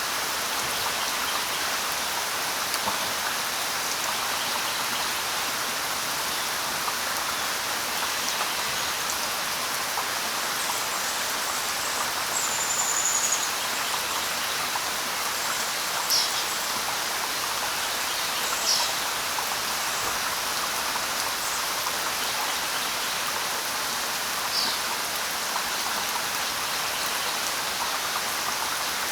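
Steady light rain falling on leaves, an even hiss throughout. A few brief high bird calls sound over it at scattered moments.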